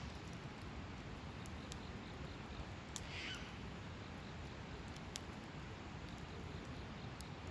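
Hardwood campfire burning with a steady low rush and scattered sharp crackles and pops, and one short falling squeal about three seconds in.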